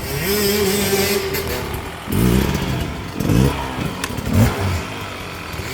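Dirt bike engine held at steady revs for about a second, then revved in three short bursts as the rider works the throttle.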